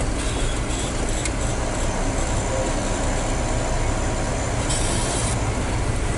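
Hino 500 FM320TI truck's diesel engine running steadily, heard from inside the cab, with a brief hiss about five seconds in.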